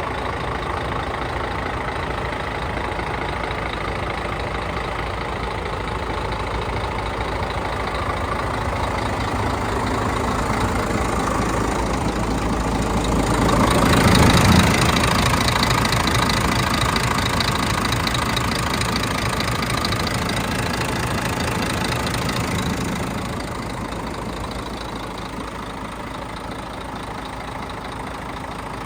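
Scania P124 tractor unit's inline-six diesel engine running at idle, swelling louder to a peak about halfway through, then easing back and quietening further near the end.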